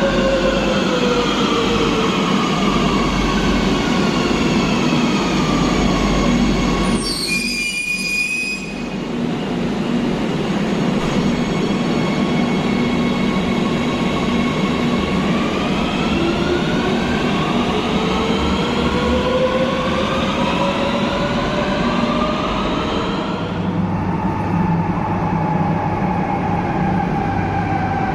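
Madrid Metro train running: its motor whine falls in pitch as it slows, a short high wheel or brake squeal comes about eight seconds in, then the whine rises again as it speeds up, over steady rumble and track noise.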